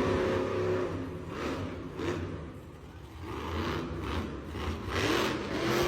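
Monster truck engines revving in surges that rise and fall in pitch, loudest at the start and again near the end.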